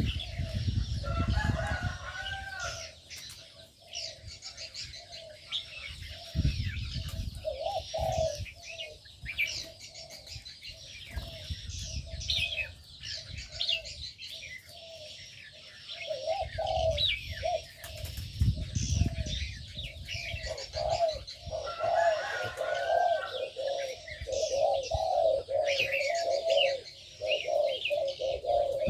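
A mix of aviary birds calling: doves cooing over and over while smaller birds chirp and twitter. A few bursts of low rumble come and go.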